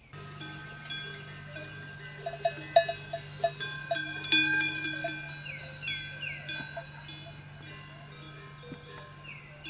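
Animal bells clanking and ringing irregularly, busiest a couple of seconds in, over a steady low hum. Short falling chirps repeat near the start and again near the end.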